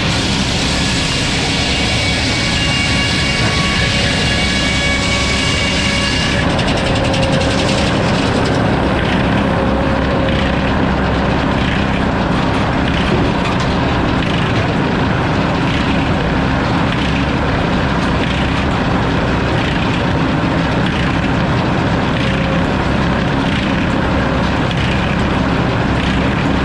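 Sawmill running and sawing a log, a loud steady machine noise. A high whine drops out about six seconds in, after which the sound pulses faintly about once a second.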